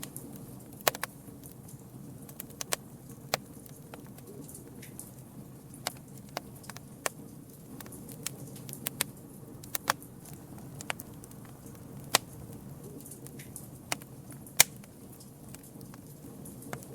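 Campfire burning with a steady low rush and irregular sharp crackles and pops of burning wood, a couple of louder pops about twelve and fifteen seconds in.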